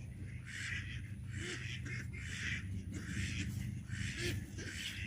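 A pet bird making harsh, raspy calls, about two a second, over a low steady rumble.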